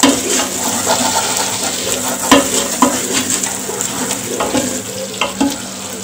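Thick onion-tomato masala sizzling as it fries in a metal pressure cooker pot while a wooden spoon stirs it. Irregular scrapes and knocks of the spoon against the pot run through it, the sharpest about two seconds in.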